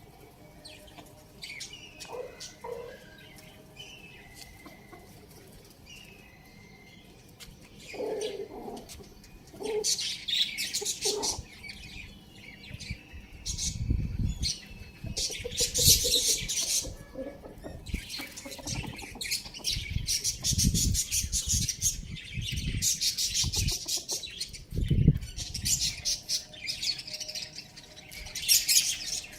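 Birds chirping and giving short calls, with loud bursts of rustling noise repeating from about ten seconds in.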